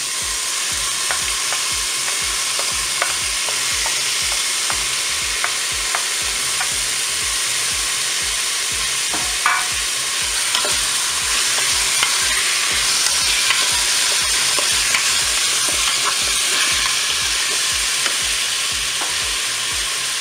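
Pork crépinettes and sliced onions sizzling steadily in hot olive oil in a Cookeo multicooker's bowl on its browning setting, with scattered small pops and clicks; a sharper click about halfway through.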